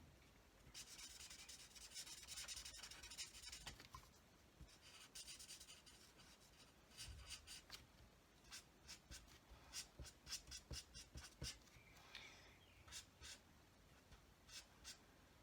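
Faint scratching of a marker nib colouring on card: continuous scribbling over the first few seconds, then quick short strokes from about eight seconds in.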